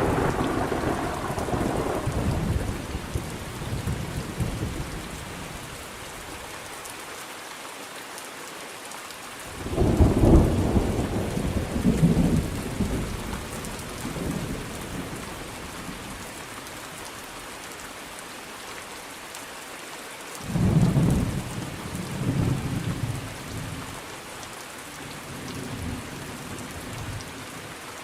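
Thunderstorm: steady rain falling, with thunder. A rumble dies away at the start, then a sudden clap about ten seconds in and another about twenty seconds in, each rumbling off over several seconds.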